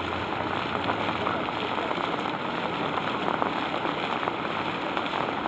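Steady rush of falling and splashing water from the last of the rain and a running fountain, with scattered faint drop ticks.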